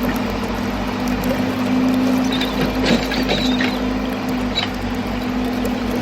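Steady hum of a toy excavator's small electric motors, with scattered light clicks and scraping as it works sand, most of them about halfway through.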